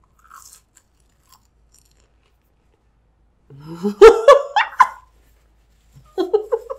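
A person quietly chewing a crunchy Hot Cheeto–crusted bite dipped in ranch. About three and a half seconds in comes a loud wordless voice sound that rises in pitch and breaks into quick pulses, and a shorter one near the end.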